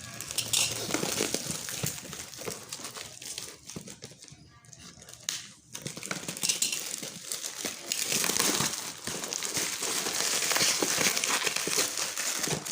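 Packaging crinkling and rustling as a mini grinder's box is opened and its contents handled. It eases off for a couple of seconds in the middle, then grows busier again.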